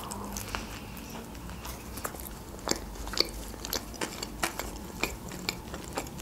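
Close-up mouth sounds of a person biting into and chewing a flatbread wrap: soft wet chewing with irregular small clicks.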